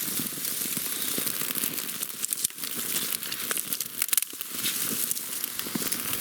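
Newly lit birch-bark and twig kindling fire crackling and snapping as it catches, with dry twigs being broken and laid on, a few louder snaps among the crackle.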